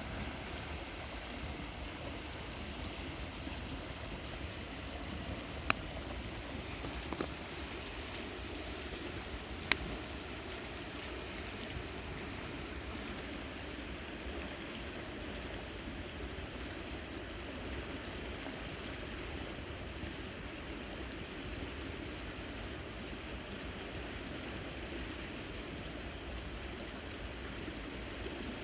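River water flowing steadily, with three short sharp clicks between about six and ten seconds in.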